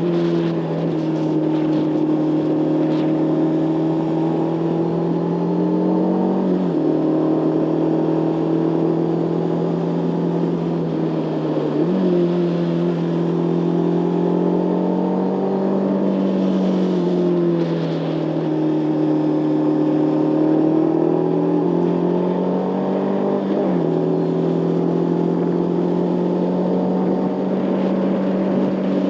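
Motorcycle engine running under way. Its pitch holds steady, then steps abruptly about four times.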